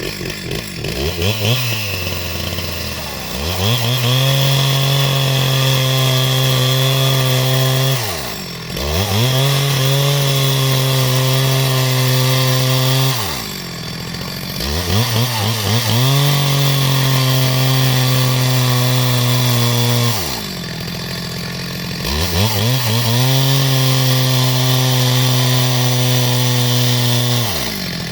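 Two-stroke chainsaw sawing wood into rafters. Its engine revs up and holds at full throttle through four cuts of about four to six seconds each, dropping back toward idle briefly between cuts.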